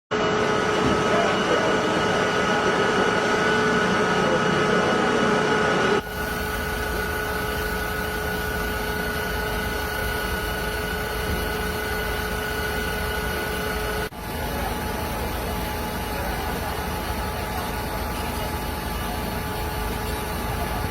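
Fire engine's heavy engine running steadily, with a constant whine over the low rumble. The sound changes abruptly twice, at about six and fourteen seconds in.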